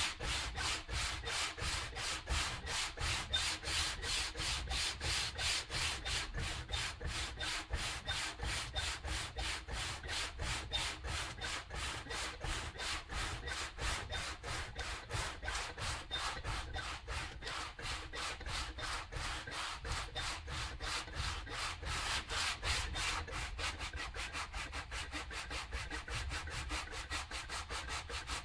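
Hand sanding: sandpaper rubbed back and forth in steady, even strokes, about three a second, quickening slightly near the end, to strip old paint and finish.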